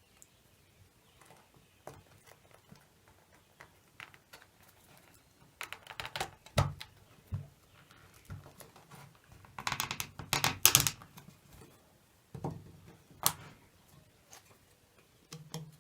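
Scattered clicks and knocks of objects being handled and set down on a workbench, with two busier clusters about six and ten to eleven seconds in and a single sharp knock a little after thirteen seconds.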